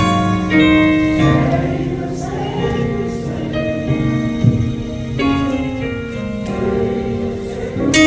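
Gospel choir singing slow, held chords that change every second or so.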